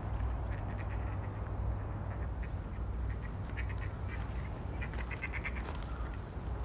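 A bird calling in short repeated notes, with a quick run of about eight notes about five seconds in, over a steady low rumble.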